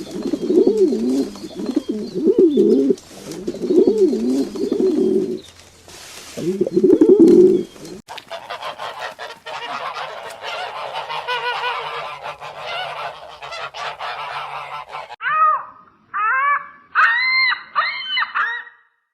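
Birds calling in three cut-together stretches: low calls repeating for the first eight seconds, then a dense chorus of many overlapping higher calls, then four loud separate calls near the end.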